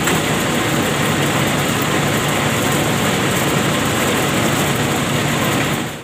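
Tow truck's heavy diesel engine running loud and steady, close up, as it pulls the crashed tanker out; cuts off suddenly near the end.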